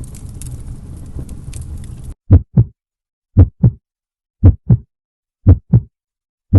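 A heartbeat sound effect: pairs of low thumps (lub-dub), about one pair a second, out of total silence. Before it, a steady noisy backdrop cuts off abruptly about two seconds in.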